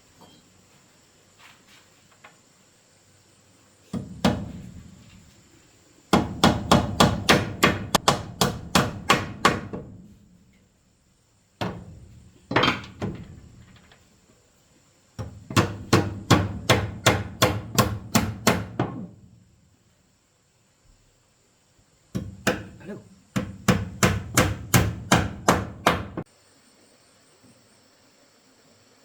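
Hammer blows in three runs of quick, even strikes, about four a second, with a few single knocks between them.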